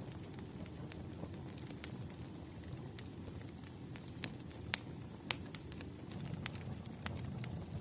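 Firewood burning: a steady low rumble of flames with scattered sharp crackles and pops, the loudest pops about halfway through.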